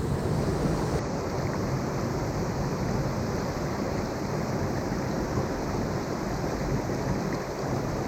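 Steady rushing noise of water pouring down a hot-spring waterfall.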